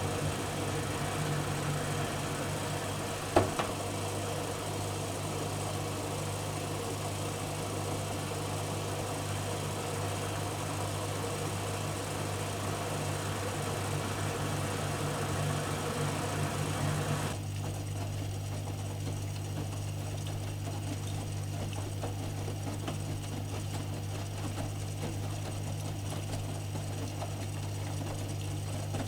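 AEG Öko-Lavamat 85769 front-loading washing machine running mid-cycle with a steady low motor hum. A single click comes about three seconds in. A louder whirring layer cuts off suddenly about halfway through, leaving only the low hum.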